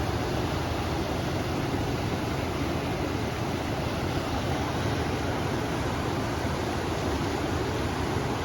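River water rushing in a steady, even wash of noise, with wind blowing.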